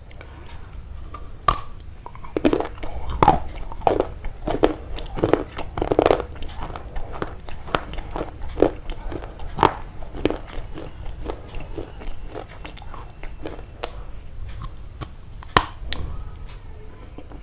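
Close-up crunching: an irregular, quick run of short crunches and clicks, busiest in the first half, with a few sharp louder clicks.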